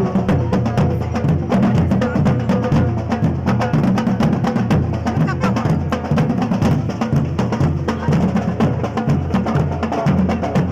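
A brass band playing, with drums and percussion strokes keeping a busy, steady beat over a strong bass.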